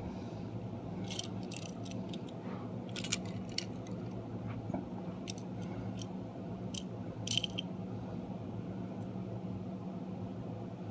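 Small toy train engines being handled: a scatter of short light clicks and taps as they are turned over and set down, over a steady low hum.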